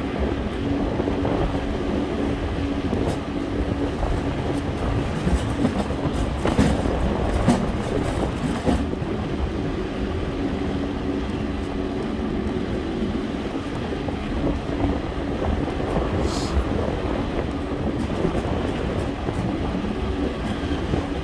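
Steady vehicle running noise, a rumble with a constant low hum, with a few short clatters about six to nine seconds in.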